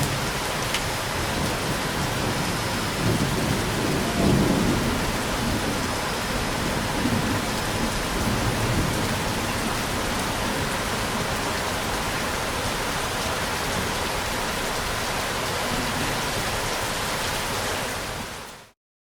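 Steady rain falling, with low rolling thunder rumbles in the first half, the strongest about four seconds in. The rain fades out to silence shortly before the end.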